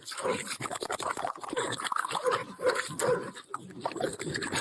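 A dog making a rapid run of short vocal noises, several a second.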